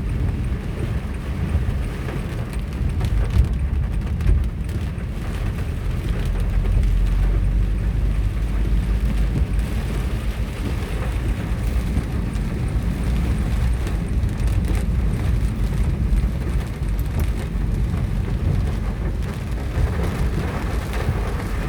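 Storm of heavy rain and strong wind. The wind buffets the microphone with a steady low rumble, over an even hiss of rain and scattered small hits.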